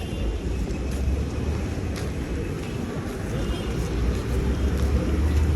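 Street traffic: motor vehicles running past with a low engine rumble that swells about a second in and again near the end.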